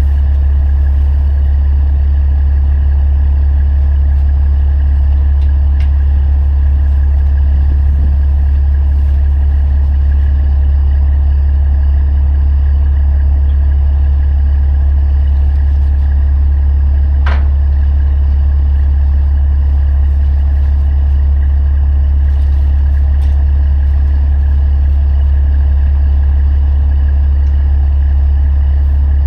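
Diesel semi truck engine idling steadily, a loud constant low hum. A brief short squeak or chirp cuts through about seventeen seconds in.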